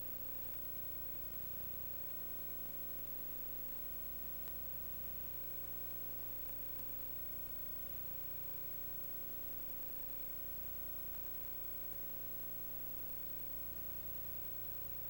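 Steady hum and hiss with a constant tone, unchanging throughout, with no distinct events.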